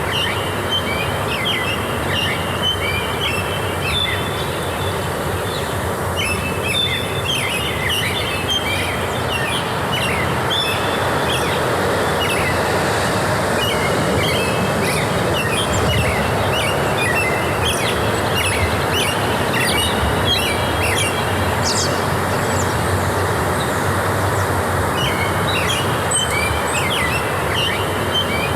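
Forest birds chirping and singing in many short, repeated phrases over a steady rushing background noise.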